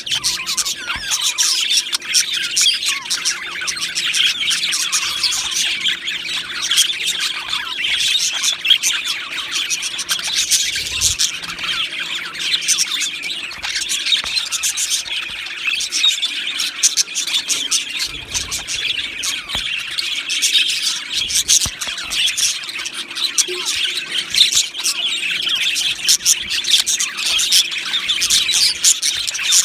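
A flock of budgerigars chattering and chirping together, a dense continuous mix of many short high chirps and squawks.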